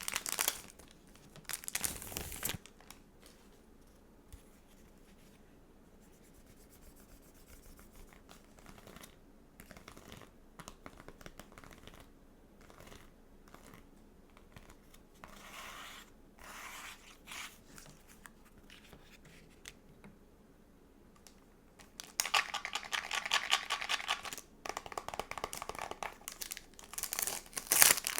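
Stickers and a sticker book being handled close up: crinkling and tearing-like sounds of plastic sheets and stickers, with small ticks and taps. After a sharp click at the start and a short rustle, it goes quiet for a long stretch, then a dense crackly rustling runs for a couple of seconds near the end.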